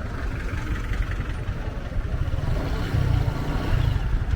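Motorcycle engine running on the move, a steady low rumble.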